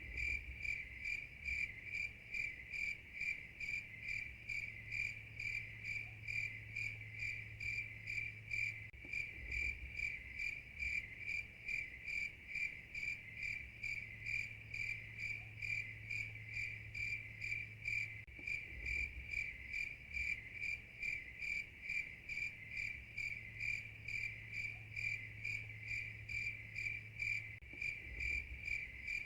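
Cricket chirping steadily in an even rhythm, a few high chirps a second.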